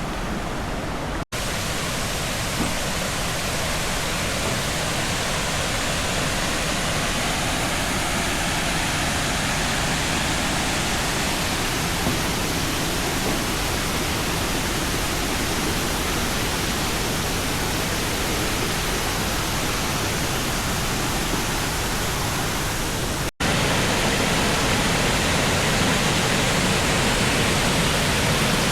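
Water rushing steadily down a limestone waterfall cascade. It breaks off for an instant twice, about a second in and near the end, and is a little louder after the second break.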